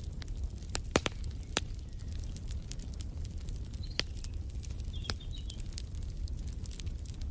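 Wood fire crackling, with irregular sharp pops (the loudest about a second in) over a low steady rumble. A few brief, faint bird chirps come in around the middle.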